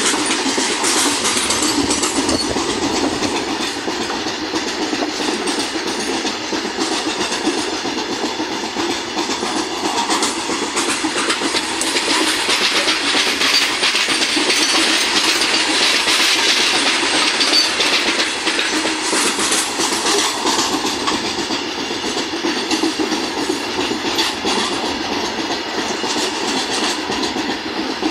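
Freight train of loaded open coal wagons rolling past: a steady rumble of steel wheels on the rails, with rapid repeated clicks as the wheels cross the rail joints.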